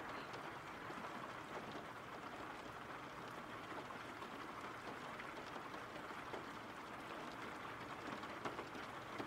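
Steady rain falling: a soft, even hiss with faint patter of drops.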